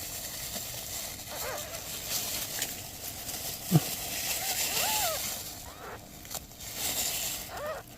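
Newborn kittens mewing: several thin, rising-and-falling cries, spaced a few seconds apart, with a pair near the end. A steady hiss runs through the middle, and there is one brief sharp sound just before the halfway point.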